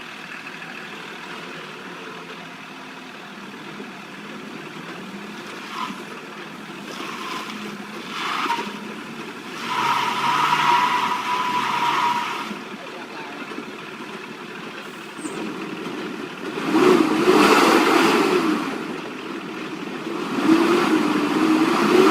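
Vehicle engines running, growing louder in several surges, with a steady high tone for about two seconds near the middle.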